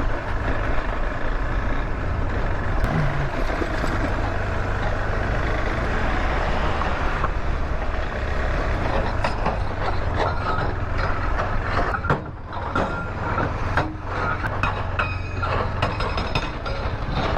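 Motorcycle engine running under way on a rough, muddy off-road track, with wind rush. From about nine seconds in there is a clatter of knocks and rattles.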